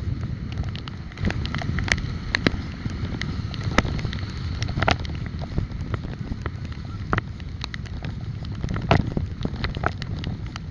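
Wind buffeting the microphone on a moving bike, a steady low rumble, with frequent sharp clicks and knocks over it.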